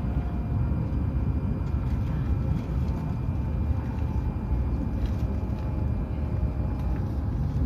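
Hokuriku Shinkansen train running: a steady low rumble with faint, steady whining tones above it.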